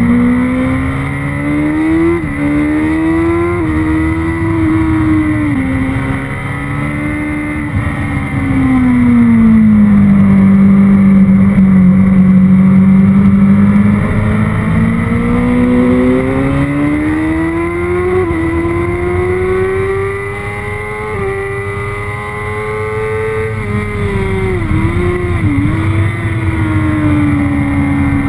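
Sport motorcycle engine at racing speed, heard from the bike itself, its revs rising and falling over and over as it accelerates and slows through the corners. The revs hold low for a few seconds in the middle. Two quick dips near the end are likely gear changes.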